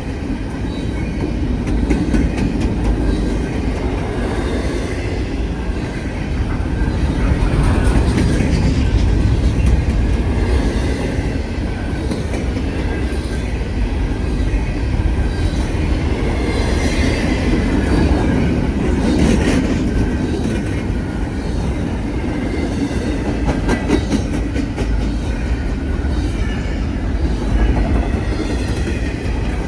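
Norfolk Southern freight train rolling past at a grade crossing: a steady heavy rumble of railcar wheels on the rails, with scattered clanks and clatter over the joints.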